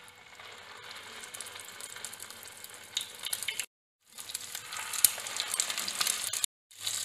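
Egg-coated potato and chicken cutlets shallow-frying in hot oil in a frying pan: a sizzle that starts as the cutlet goes into the oil and grows, with sharp crackles. It is broken twice by brief dead silences.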